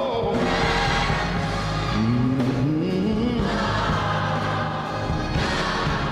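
Gospel choir singing in church with instrumental accompaniment.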